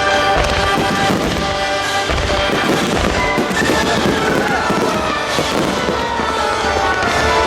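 Music for a synchronised fireworks display, with fireworks shells bursting in several deep booms and crackles over it.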